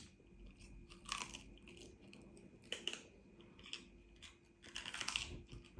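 Raw celery stick being bitten and chewed: scattered crisp crunches, thickening into a run of crunching near the end. The stick is really hard to get through with newly fitted teeth.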